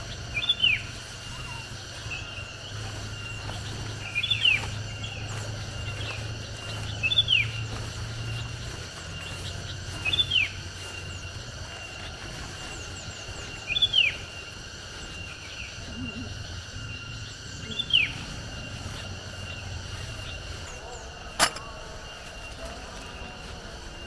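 A bird repeating a short call that falls quickly in pitch, six times, about every three to four seconds, over a steady high whine and a low hum. A single sharp click sounds near the end.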